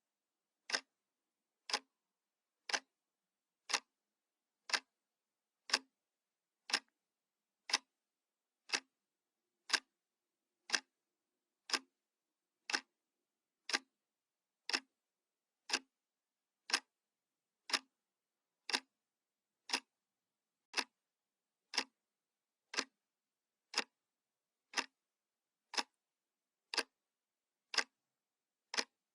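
Analog clock ticking once a second, each tick a short dry click with silence between.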